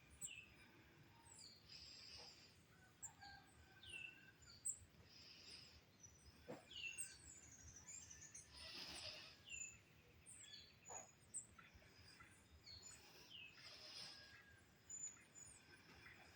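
Several birds chirping faintly in a morning chorus: many short calls that each slide down in pitch, scattered throughout.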